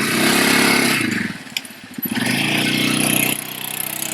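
A small vehicle engine revving in two loud bursts, each lasting about a second, with its pitch rising and falling, then running more quietly near the end.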